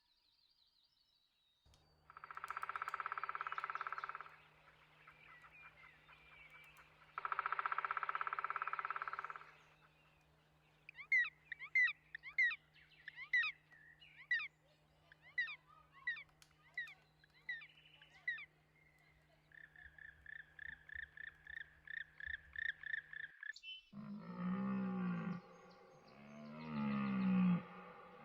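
A run of different animal calls, one after another. First come two long drawn-out calls, then a series of quick chirping notes that glide up and down, then a fast even trill. Lower calls that rise and fall begin near the end.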